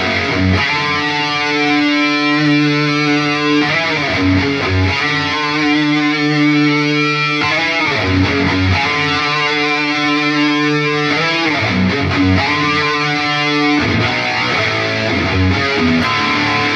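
Distorted electric guitar played through an Atomic AmpliFire modeler pedal into cheap computer speakers, picked up by a phone's microphone. Long held notes ring out, changing every three to four seconds.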